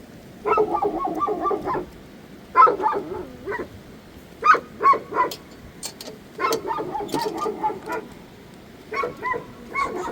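An animal calling over and over in pitched, wavering bursts of about a second each, with a few sharp clicks in the middle.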